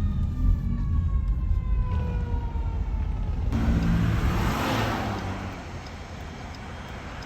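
An emergency vehicle's siren wail slowly falling in pitch over about three seconds, over a steady low vehicle rumble. A swell of rushing noise follows about four seconds in.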